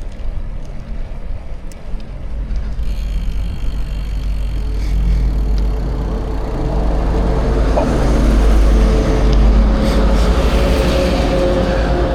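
Bicycle ride ambience: wind rumbling on the microphone over the rush of tyres rolling on the road, growing louder and brighter from about halfway through.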